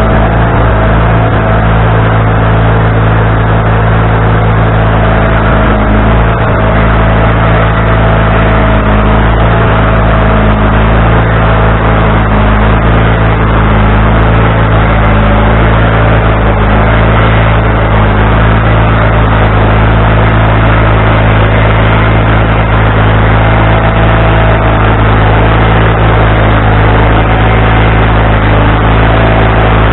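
Wood-Mizer LT40HD band sawmill running steadily at speed with the band blade cutting through a log: a constant engine hum with a slightly wavering whine above it.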